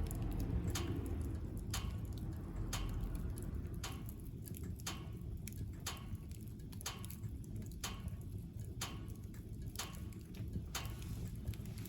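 Firewood crackling in a wood-burning stove: sharp, irregular pops, about one or two a second, over a low steady rumble of the fire.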